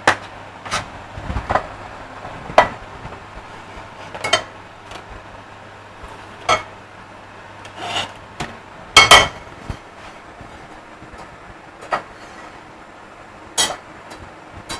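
Irregular knocks and scrapes of kitchen prep work on a wooden cutting board, spaced a second or more apart. The loudest is a quick double knock about nine seconds in.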